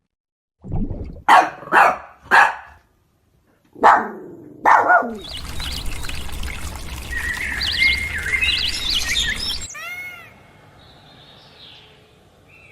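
A few short, loud animal calls in the first five seconds, then birds chirping over a noisy background, and a few faint arching calls near the end.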